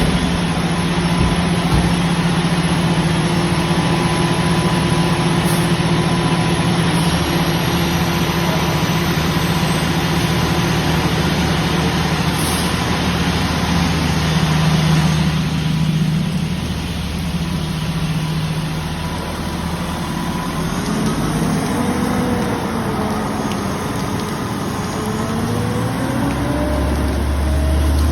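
A fire engine's engine running steadily under a wide hiss of noise. From about two-thirds of the way through, a tone wavers slowly up and down above the engine.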